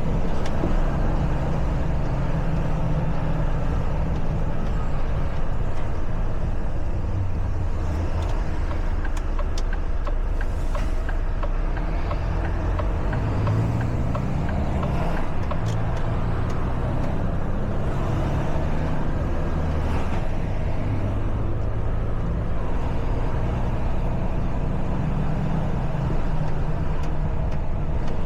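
A truck's diesel engine running under way, with road noise, its pitch shifting as the speed changes.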